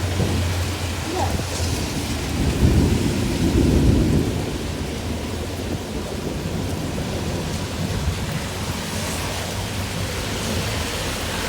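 Heavy storm rain falling steadily, with a low rumble of thunder swelling about two to four seconds in.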